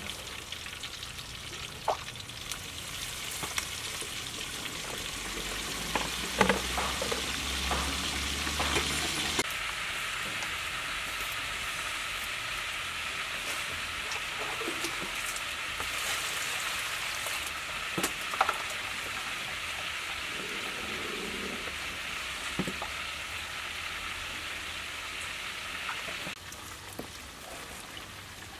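Quail deep-frying in hot oil in a wok: a steady sizzle with a few sharp clicks of utensils against the pan. The sizzle drops back near the end.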